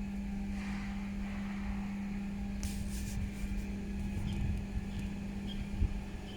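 Isuzu diesel fuel tanker truck running with a steady hum and low rumble, with a few light clicks about halfway through and a short knock near the end.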